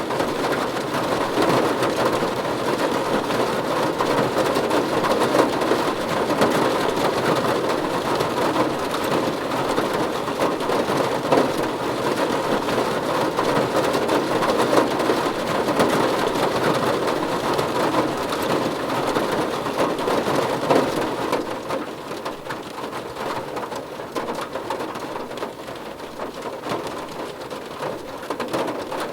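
Steady rain falling on a car, heard from inside the car as an even, dense patter. It turns somewhat quieter about three-quarters of the way through.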